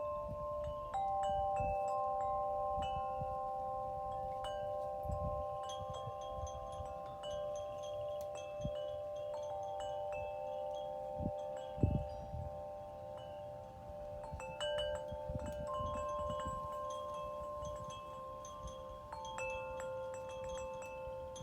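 Wind chimes ringing in a breeze: low metal tones struck at irregular moments, each note ringing on and overlapping the next, over a low gusting rumble of wind.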